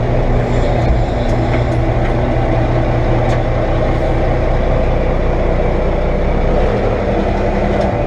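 Heavy diesel engine running steadily at an even speed, a loud deep hum.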